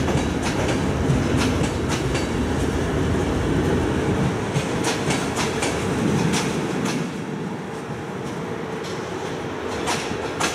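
Passenger coaches of a departing train rolling past: a steady rumble of wheels on rail with repeated sharp clicks of the wheels over rail joints. The sound eases off about seven seconds in as the last coaches draw away.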